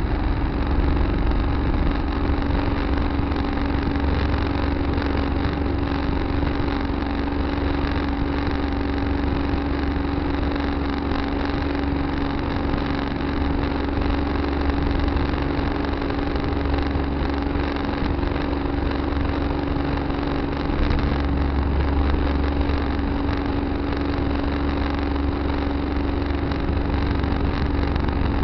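Tractor engine running steadily, a constant hum over a low rumble, heard from a dash camera on the tractor.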